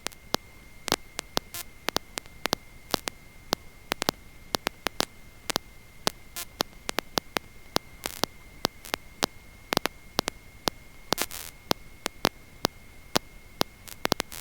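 Electrical static on the aircraft intercom line with its voice channel closed: a steady hiss and faint hum, a thin steady high whine, and irregular sharp crackling clicks several times a second. The engine and wind noise are cut out.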